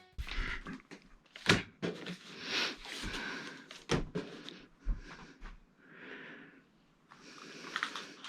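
Handling noises from work on a flat-screen TV's parts: a series of sharp knocks and clicks, the loudest about a second and a half in and again near four seconds, with rustling and scraping in between.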